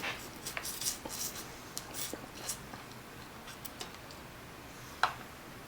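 Dungeness crab being picked and eaten by hand: soft scattered crackles and clicks of shell and meat, busy at first, then sparse, with one sharper click about five seconds in.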